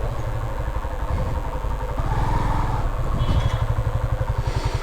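Motorcycle engine running at low revs with an even, rapid throb.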